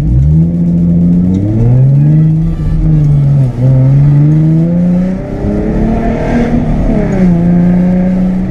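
2013 Ford Mustang's 3.7-litre V6 accelerating hard: the engine note climbs, drops sharply with an upshift about three and a half seconds in, climbs again, then eases off and settles to a steady cruise near the end.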